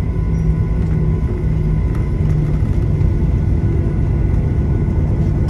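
Steady low rumble in an airliner's cabin as the plane rolls on the ground just after landing, with a few faint steady whines from the engines over it.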